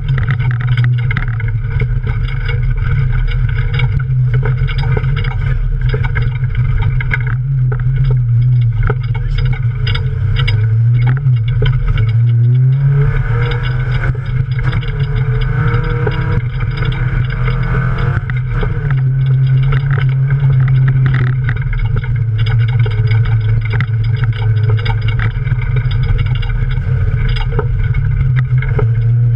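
Toyota Yaris rally car engine running hard, heard inside the cabin, its pitch dipping and then climbing again about halfway through. Short knocks and clatter of mud and stones striking the car run through it.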